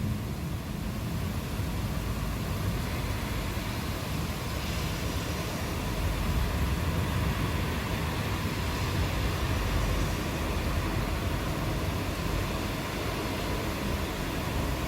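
Rain falling steadily, with a low rumble of distant thunder underneath that swells and eases.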